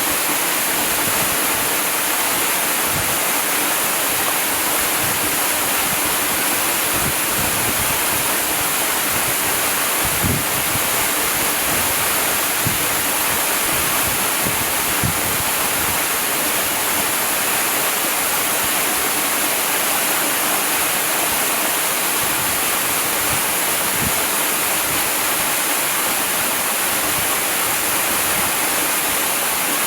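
Waterfall: water falling and splashing in a steady, even rush, with a few low splashes breaking through now and then.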